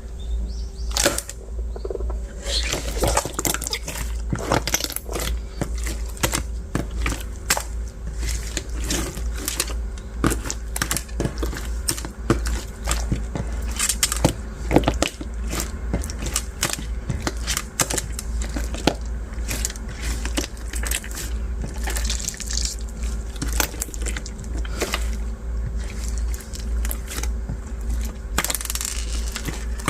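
Semi-transparent bead slime being squeezed and worked by hand, giving a dense run of small irregular clicks and wet crackles as the beads and slime pop and squish, over a steady low hum.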